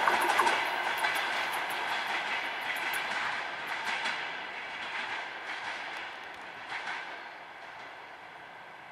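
Passenger train's coaches rolling away on the rails, their wheels clattering over the rail joints in scattered clicks, the sound fading steadily as the last coach recedes.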